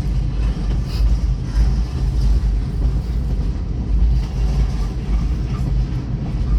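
Freight train passing at a road crossing: a steady, low rumble.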